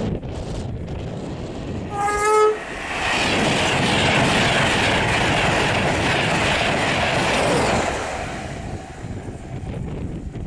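Short horn blast from the class 82 driving van trailer leading an LNER InterCity 225 set, about two seconds in. The train then passes at speed with a loud rush of wheels and air for about five seconds and fades away, with wind on the microphone before and after.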